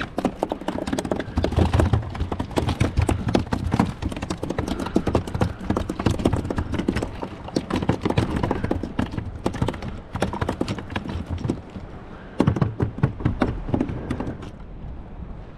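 A hooked fish flopping and thrashing against the plastic kayak, making rapid, irregular knocking and slapping that eases off near the end.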